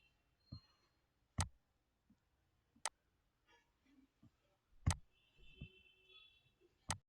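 Near silence broken by four sharp clicks, one every one and a half to two seconds, with a few fainter ticks between them.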